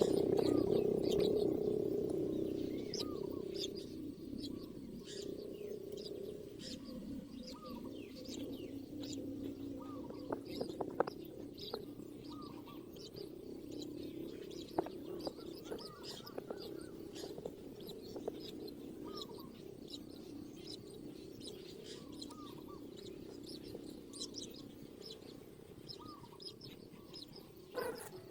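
Small birds chirping: many short high chirps with a repeated short, arched call note about once a second, over a low steady hum that is loudest at the start and fades over the first few seconds.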